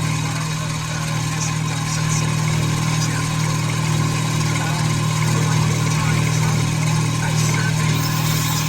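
Shop machine motor running with a steady low hum.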